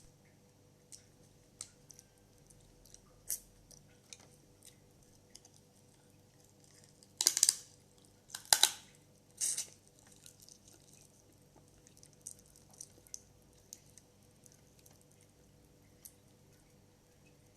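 Someone eating crab by hand: scattered small wet clicks and smacks of chewing and picking at the shell, with three louder bursts in quick succession about halfway through.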